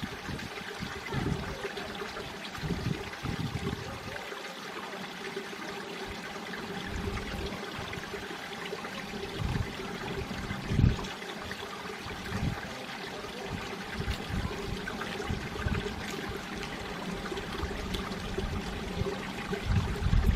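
Mountain stream water flowing steadily over rocks. Irregular low rumbles come through it, strongest about halfway through and near the end.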